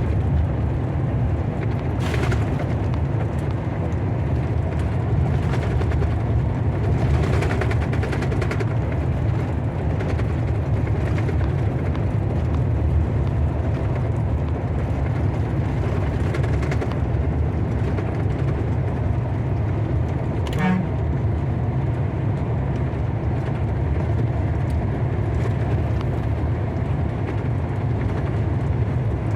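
Thunderstorm noise: a steady low rumble with a few brief brighter rushes.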